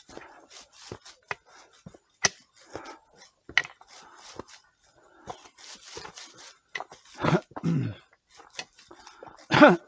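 Scattered sharp taps and clicks, then a dog giving two louder whining barks near the end.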